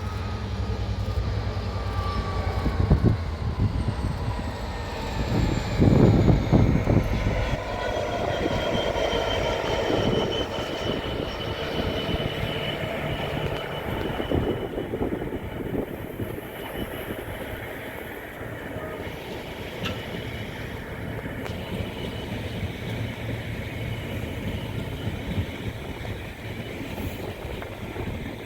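A Class 66 diesel-electric locomotive's two-stroke V12 engine passes with a falling whine and loud peaks in the first few seconds, then the train's coaches roll by, wheels rattling on the rails with a high, steady wheel squeal.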